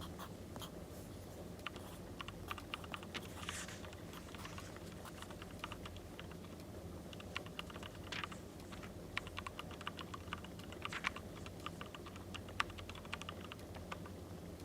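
Runs of light, quick clicks and taps over a steady low hum.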